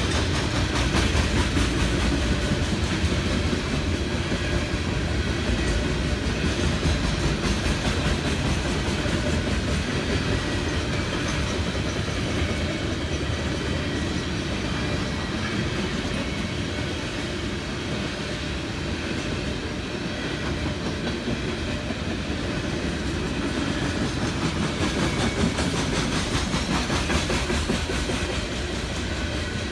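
Coal train's open-top hopper cars rolling past, their steel wheels clattering over the rail joints in a steady clickety-clack.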